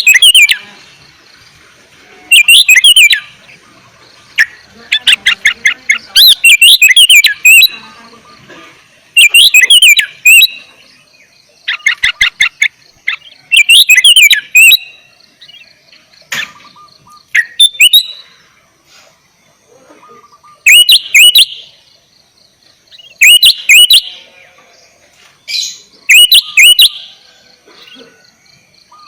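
Sooty-headed bulbul (kutilang) singing in full voice: short phrases of quick, sweeping notes repeated every two to three seconds, with a couple of runs of rapid clicking notes between them.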